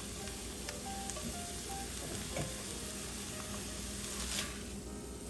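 Mushrooms sizzling in a hot cast iron braiser with a steady hiss, with a few light clicks of a utensil against the pan. Faint background music plays along.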